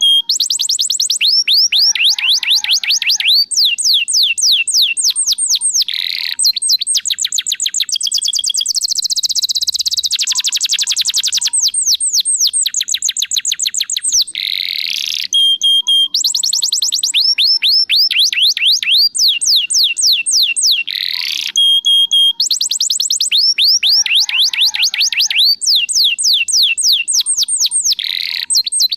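Domestic canary singing a loud, unbroken song of fast trills: rapid runs of repeated down-slurred whistled notes, switching to a new phrase every second or two, with short held whistles between them.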